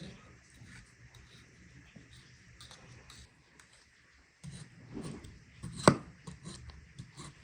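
Faint rubbing and scraping sounds of hands handling food and kitchen things, with one sharp knock about six seconds in.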